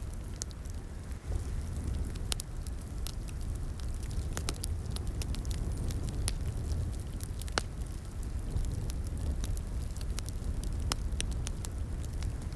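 Crackling wood fire: a steady low rumble of flames with irregular sharp pops and snaps from the burning wood.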